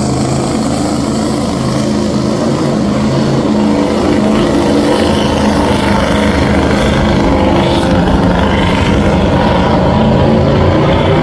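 Pulling truck's engine held at high revs under full load while it drags the weight-transfer sled down the track, with a steady, loud engine note and tyre and track noise.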